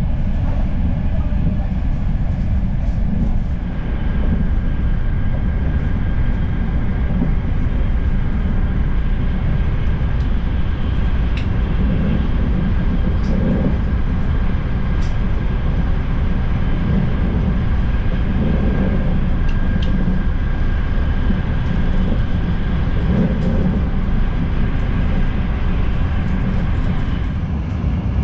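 Steady running noise inside a Frecciarossa ETR 500 high-speed train's passenger coach: a deep rumble of the train under way, with a faint steady high tone over it.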